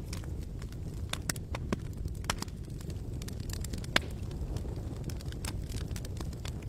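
Wood campfire crackling: irregular sharp pops and snaps over a steady low rumble, with one louder pop about four seconds in.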